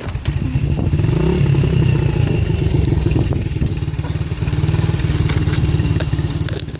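Dirt bike engine catching suddenly and running hard, the revs rising and falling through the first few seconds before settling into a steady run that eases off near the end.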